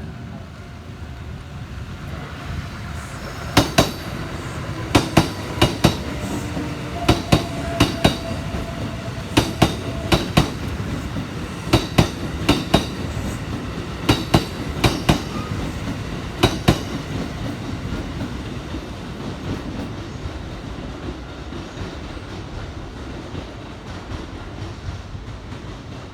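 A Kintetsu electric train running past close by, its wheels clacking over the rail joints. Sharp clicks come in quick pairs about once a second from about four seconds in until about seventeen seconds in, over a steady running rumble that carries on after the clicks stop.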